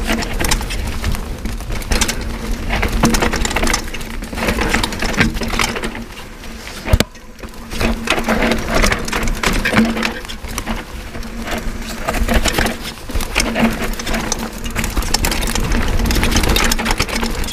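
Mountain bike riding over a rough, rocky trail: tyres crunching on stones and the bike rattling on and on. There is a short lull about seven seconds in.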